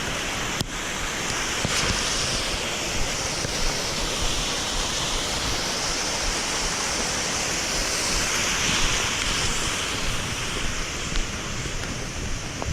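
Steady rushing noise of wind and rain, with gusts buffeting the microphone as an uneven low rumble. A single sharp click about half a second in.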